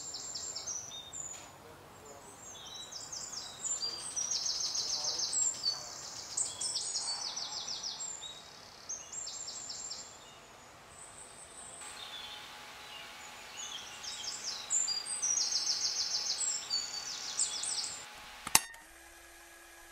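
Several small songbirds chirping and trilling over a steady background hiss, with a single sharp click near the end.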